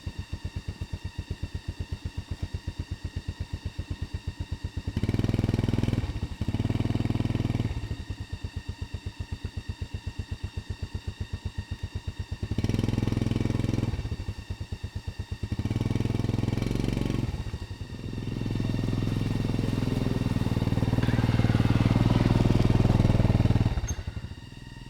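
Motorcycle engine idling with an even chugging beat, blipped up in revs several times, then held at higher revs for several seconds before dropping back near the end.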